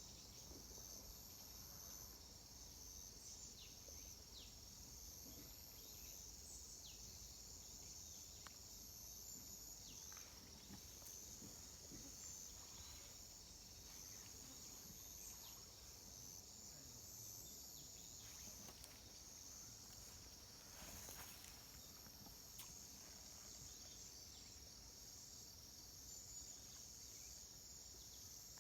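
Faint, steady high-pitched chorus of insects such as crickets, with a few faint ticks and a brief soft rustle about three quarters of the way through.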